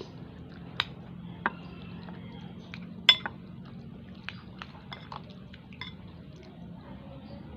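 Cutlery clinking and scraping against a bowl of instant noodles while eating, in a series of sharp clinks with the loudest about three seconds in, over a faint steady low hum.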